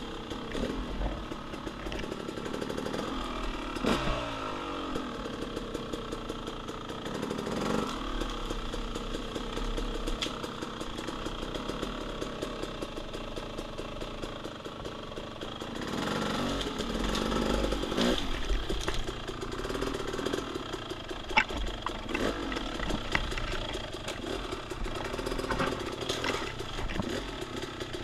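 Dirt bike engine running as it is ridden along a woods trail, the throttle opened and closed so the engine note rises and falls several times, with a few sharp knocks in the last third.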